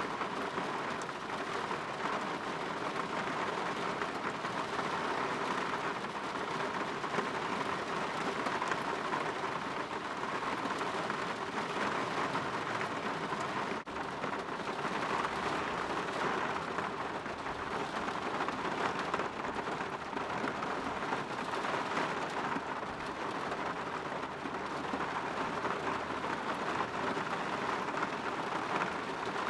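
Steady rain falling against a window, a continuous even patter of drops.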